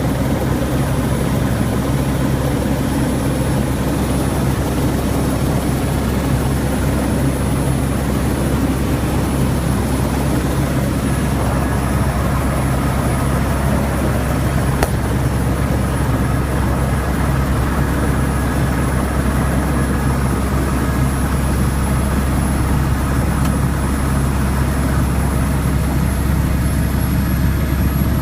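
Helicopter in flight heard from inside the cabin: a steady, loud drone of rotor and engine, with a thin high whine held above it.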